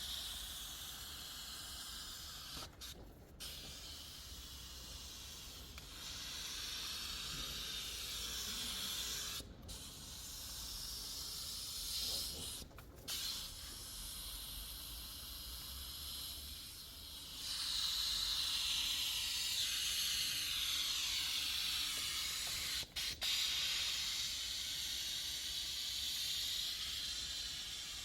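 Steady hiss of a pressurised air or steam jet from a car-detailing tool, cut off briefly several times as the trigger is released. It gets louder about two-thirds of the way through.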